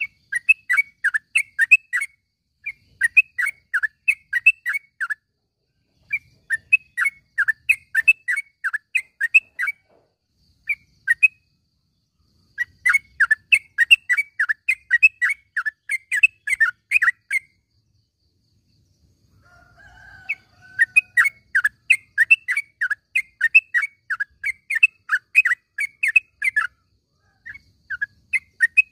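Yellow-vented bulbul (trucukan) calling: rapid chattering runs of short chirped notes in bouts of a few seconds, with short pauses between them.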